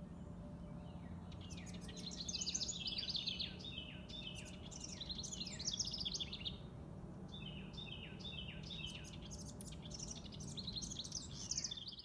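House wren singing: several song phrases, each a rapid run of notes falling in pitch, repeated a couple of seconds apart.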